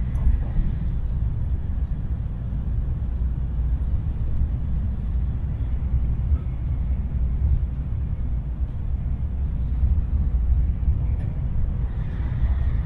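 Tokaido Shinkansen train running at speed, heard inside the passenger cabin as a steady low rumble with road-like noise over it.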